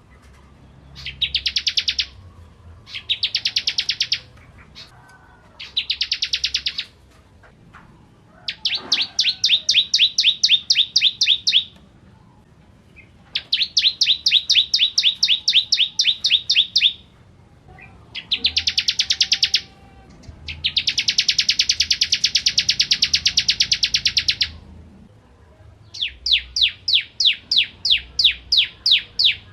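Ciblek kristal (bar-winged prinia) singing in repeated fast high trills, each one to four seconds long with short pauses between; near the end the notes come slower and more spaced.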